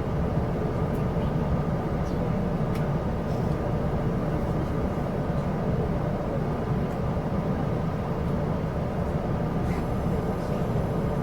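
Steady running noise inside a moving Chu-Kuang Express passenger carriage: a low rumble of the train on the rails, with a few faint clicks.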